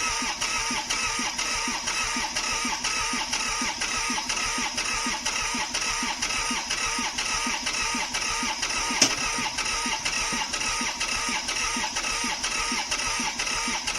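John Deere 855's three-cylinder diesel being cranked on the starter at a steady, pulsing rhythm without catching, with one sharp click about nine seconds in. The starter stops suddenly at the end. The engine will not fire because its middle cylinder is dead, with low compression.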